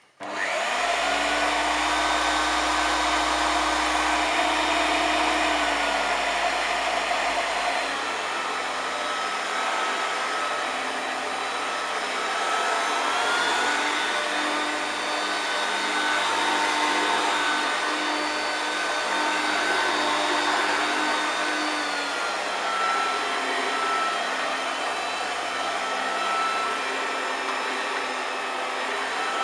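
1993 Hoover TurboPower 2 autosense U2464 vacuum cleaner switched on and running, a steady motor whine whose pitch shifts a few times.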